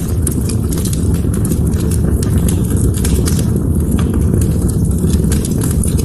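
Wood fire crackling, with frequent sharp pops and snaps over a steady low roar of burning.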